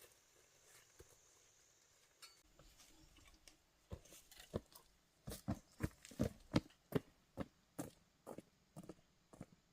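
A run of dull knocks, two or three a second, starting about four seconds in after a quiet stretch.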